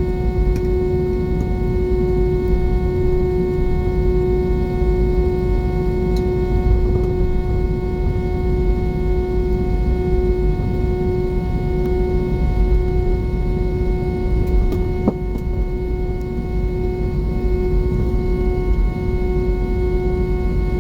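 Airbus A320 engines and airflow heard from inside the cabin: a steady low rumble with a constant whining tone over it. A single faint click about fifteen seconds in.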